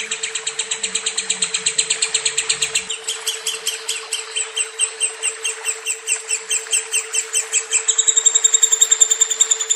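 Lovebird chattering in a long, unbroken run of rapid, high, repeated chirps. The notes come very fast for about three seconds, then a little slower, and change tone again near the end.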